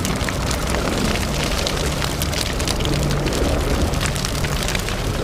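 Sound effect of a large fire: a steady low rumble with dense crackling.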